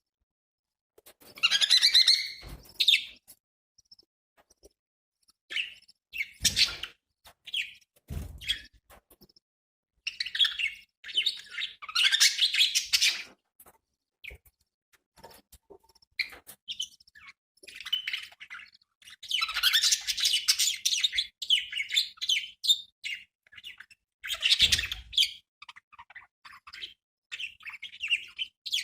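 Budgerigars chattering and chirping in bursts with short pauses between, mixed with a few dull knocks.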